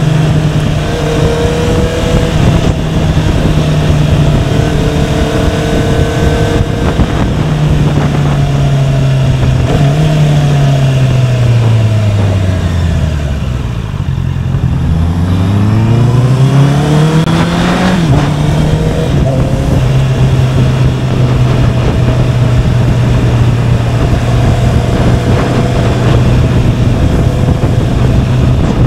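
Honda CBR650R inline-four engine heard from the rider's seat, with wind noise: it holds a steady pitch while cruising, drops as the bike slows about ten seconds in, then rises again as it accelerates away and settles back to a steady cruise.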